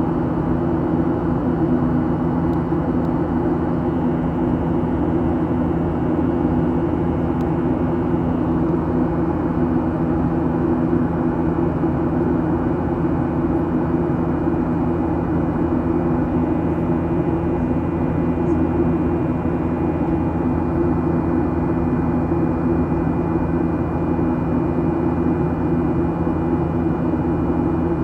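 Steady cabin noise of a Boeing 737-800 in flight: its CFM56-7B jet engines and the airflow make an even, unbroken drone with a low hum.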